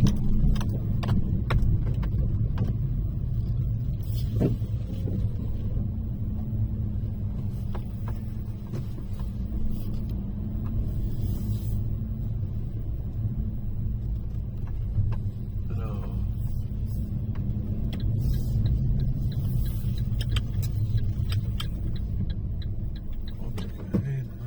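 Car engine and road rumble heard from inside the cabin while driving: a steady low hum with a few light clicks.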